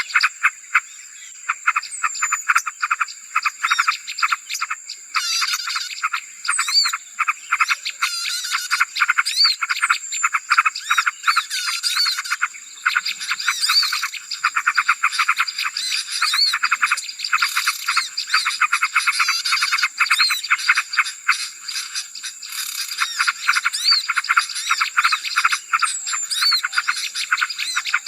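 Dense, noisy chorus of many small birds chattering, with rapid short calls packed closely together and occasional higher chirps over a steady high-pitched tone. This is a bird-lure call ('suara pikat') played to draw small birds in.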